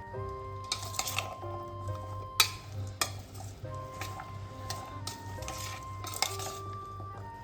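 A spoon stirring and scraping in a bowl as a chickpea salad is mixed, in several short bursts, with one sharp clink against the bowl about two and a half seconds in. Soft background music plays throughout.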